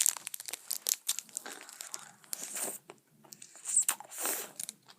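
Wrapper of a Bazooka chew bar crinkling and tearing as it is handled and opened, in irregular crackles, with a louder rustle about four seconds in.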